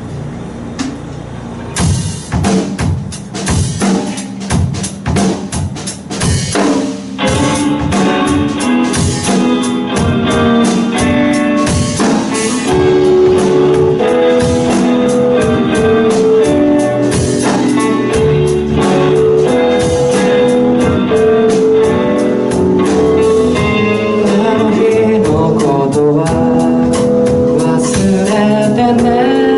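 Live band music with keyboard and drum kit. Separate drum hits start about two seconds in, and the full band comes in at about seven seconds and plays on steadily.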